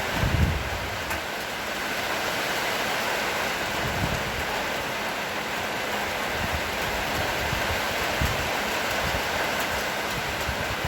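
Steady rain falling, an even hiss. A few low thumps break through, the loudest about half a second in.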